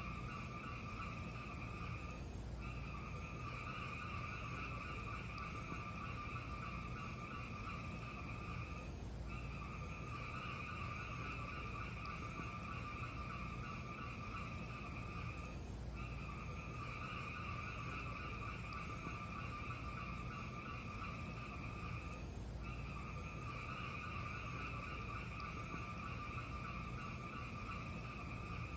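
Looped fireplace fire sound: a steady hiss over a low rumble, breaking off for a moment about every six and a half seconds as the loop repeats.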